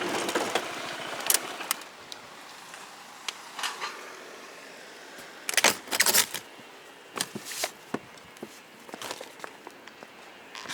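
Scattered short clicks and clatters of small objects being handled, like keys jangling, after a steadier noise fades out about two seconds in.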